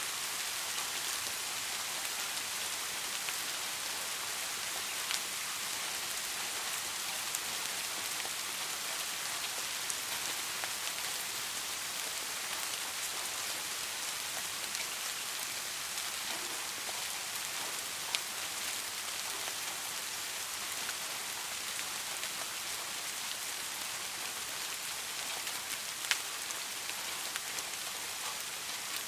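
Steady rain falling, an even hiss with now and then a single louder drop hitting close by.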